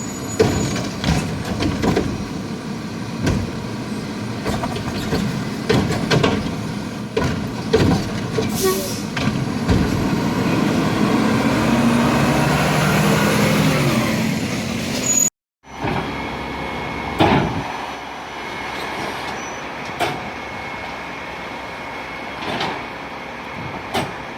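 Garbage truck at work: engine running with repeated clanks and knocks, and a short hiss about nine seconds in. The engine revs up with a rising pitch for a few seconds before a sudden cut. After the cut the truck sound is quieter, with scattered knocks.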